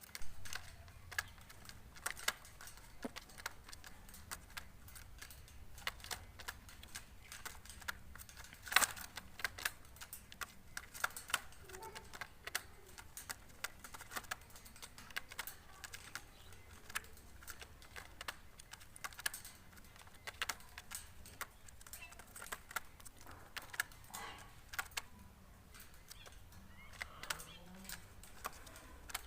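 Chukar partridges pecking: an irregular run of sharp taps, one to a few a second, with one louder tap about nine seconds in.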